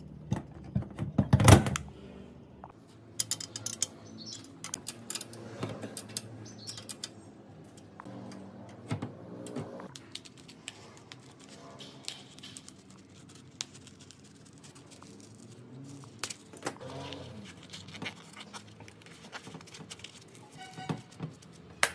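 Scattered clicks, taps and light knocks of hand work on small parts, loudest about a second and a half in, over faint steady tones.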